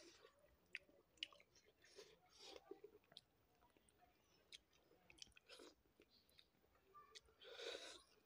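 Faint close-up chewing and mouth sounds of a man eating eel curry by hand: scattered wet clicks and smacks, with a longer, louder mouth sound near the end.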